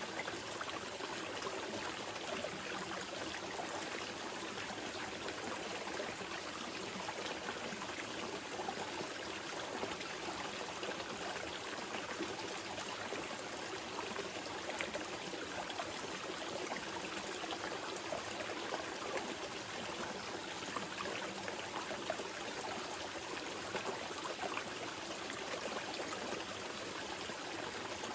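Small mountain river flowing steadily over rocks: a continuous gentle rush with fine trickling and splashing detail.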